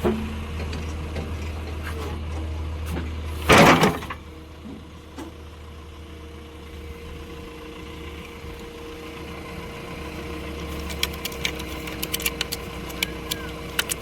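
Diesel engine of a tractor or backhoe idling steadily. About three and a half seconds in there is a loud, noisy burst lasting about half a second, and near the end a run of sharp clicks.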